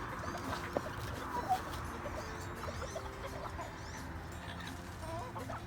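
Chickens in a mixed backyard flock clucking and calling quietly, with a few higher chirps.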